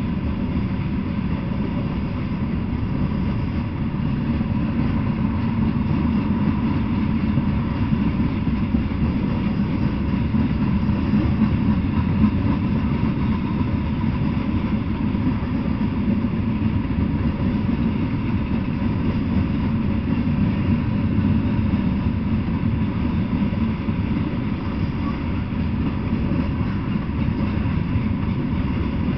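Freight train of covered hopper and tank cars rolling past: a steady rumble of steel wheels on the rails.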